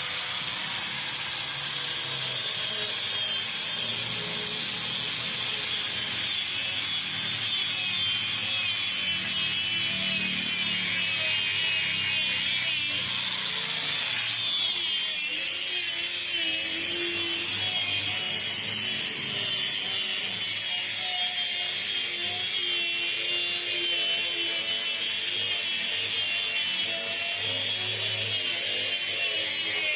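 A handheld power tool running continuously on wood during boat building. Its high whine wavers slightly in pitch as the load changes.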